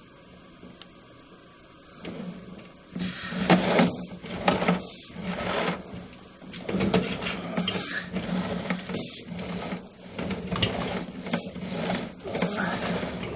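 A plumbing cable being fed into a sink drain line, with irregular rattling and scraping from about three seconds in over a steady low hum.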